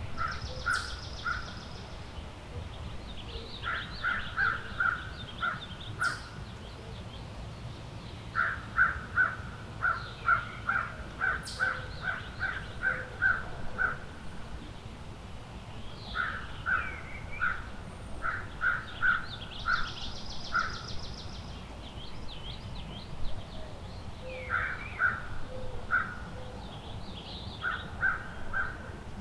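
Woodland birds calling. One bird gives series of short, repeated calls, a few up to about a dozen in a row at two to three a second, while other birds add higher trills and chirps, over a low steady rumble.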